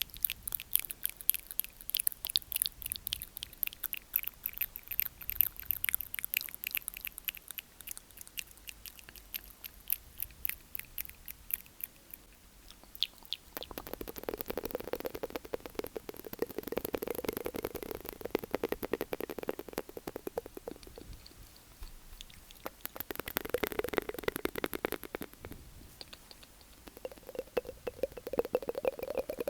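Close-miked ASMR mouth sounds: long runs of rapid wet tongue and lip clicks. The clicks are sharp and high for the first dozen seconds, then turn fuller and wetter in several stretches later on.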